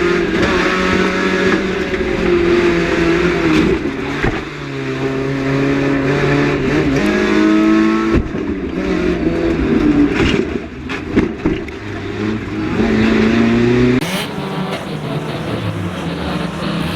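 Banger racing car engine revving hard, its pitch climbing and dropping again and again as it accelerates and lifts, with several sharp thuds of impacts. The sound changes abruptly about 14 seconds in.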